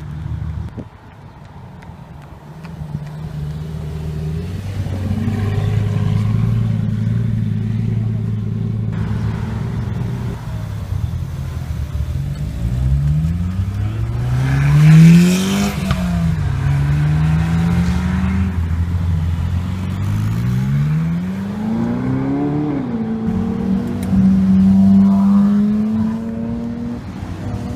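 Sports car engine running at a steady low idle, then revved hard twice, the pitch sweeping up and dropping back each time, the first rise about halfway through the loudest; after the second it holds a steadier, higher note.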